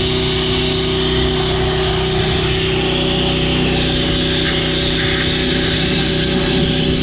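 Pressure washer running steadily with a wet sandblast kit, its nozzle spraying a hissing jet of water and sand.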